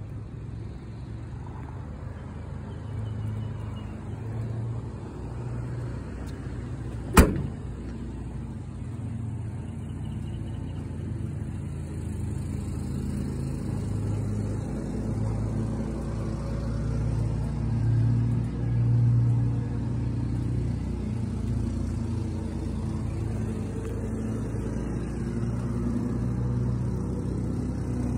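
Motor vehicle running, a low hum that swells and eases, with one sharp click about seven seconds in.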